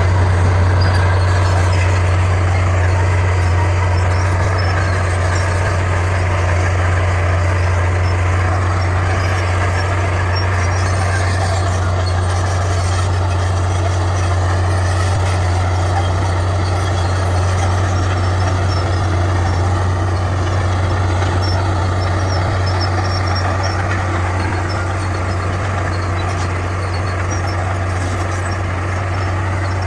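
Bulldozer's diesel engine running steadily, with a constant deep hum and no breaks.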